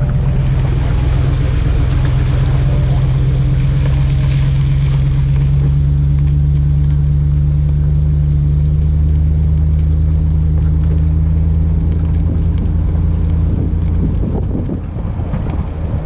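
Boat motor running steadily as the boat gets under way, with wind buffeting the microphone. The motor eases off near the end.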